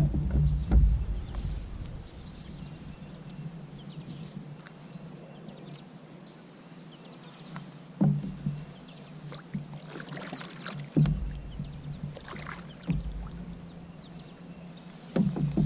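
Scattered knocks and bumps on a kayak hull over a quiet background, the strongest about a second in and a few more later on.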